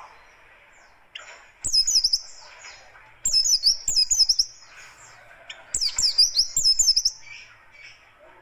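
Oriental white-eye (pleci buxtoni) singing its harsh, fast song: three bursts of rapid, sharp, high chirps about a second apart, over a faint background hiss.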